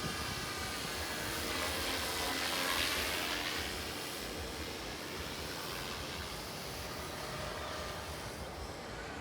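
Radio-controlled model airplane flying past. Its motor swells louder with a shifting pitch about two to three seconds in, then settles to a steadier, fainter drone.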